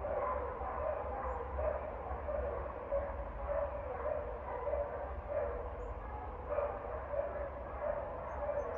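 A dog barking over and over at a steady rhythm, about one to two barks a second, without a break.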